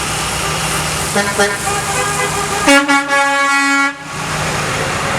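Truck air horn blowing: two short toots just over a second in, then one long steady blast of just over a second about halfway through. Steady truck engine and traffic noise runs underneath.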